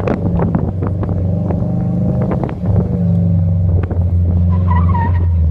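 Car engine running loudly with a steady low drone, its pitch and level stepping up a little about halfway through. A few short high squeaks come near the end.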